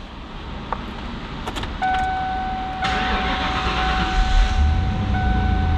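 1995 Ford Mustang GT's 5.0-litre 302 V8 being started and settling into a low idle, with a steady high electronic warning tone from the car sounding from about two seconds in.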